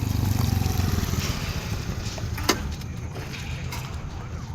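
Strong wind buffeting the microphone in heavy rain: a heavy low rumble over a steady hiss, easing after about two seconds, with one sharp crack about two and a half seconds in.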